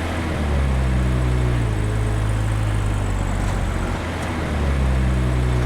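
An engine or motor running with a steady low hum. It eases off slightly about four seconds in and picks up again.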